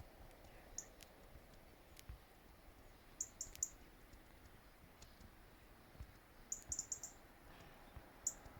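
Small songbirds giving short, very high-pitched chirps in little groups: one early, three close together, then a quick cluster and a last single chirp, over faint still-air background.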